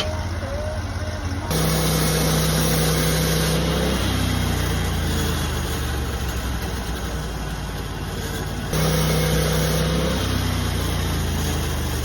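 Sawmill engine running steadily. About a second and a half in it suddenly gets louder and stays loud for a couple of seconds before its pitch drops. It jumps up the same way again near nine seconds in.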